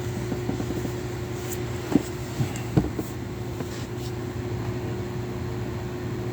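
Steady low machine hum with a couple of fixed tones, and three short knocks about two to three seconds in.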